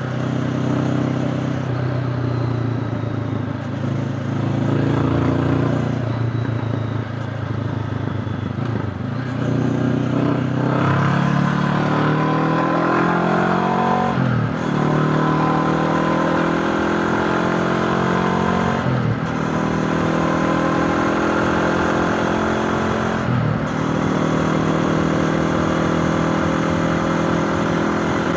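Honda CB500X parallel-twin engine pulling hard while the motorcycle accelerates, its pitch climbing in each gear and dropping at three upshifts in the second half.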